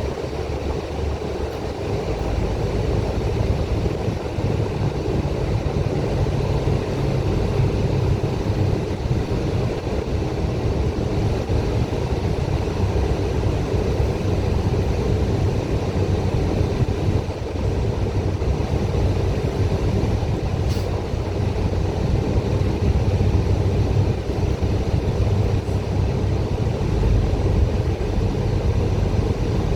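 Steady drone of a bus engine and road noise heard from inside the moving bus's cabin.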